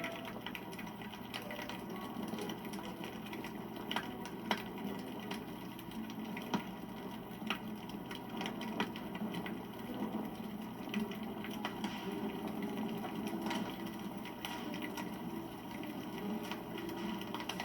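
Wood campfire crackling: a steady low rush of flames with many small irregular snaps and a few sharper pops.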